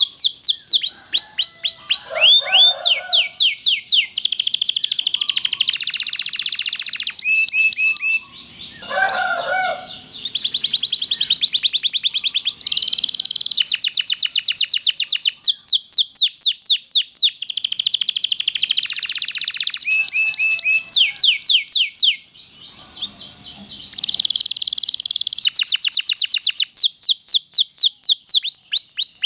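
Domestic canary singing a long, continuous song of fast repeated down-sweeping notes and rolling trills, with two brief pauses.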